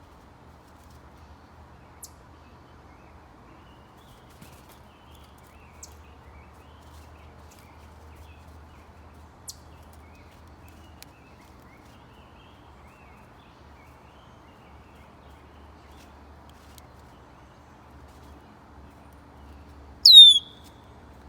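A bird gives one loud, sharp, downward-sweeping chirp near the end. Before that there is only a faint steady background with a few brief high ticks.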